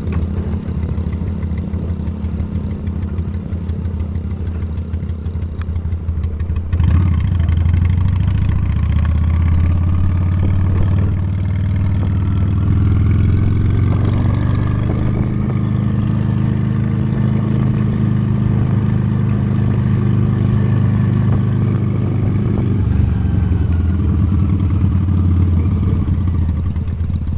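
Honda Steed motorcycle engine running, its steady low hum getting louder about seven seconds in, then the revs rising and falling gently as it is ridden.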